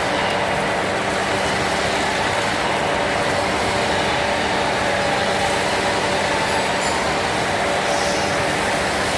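Metal-turning lathe running steadily during a drilling operation: a constant machine hum with several steady tones over an even mechanical noise.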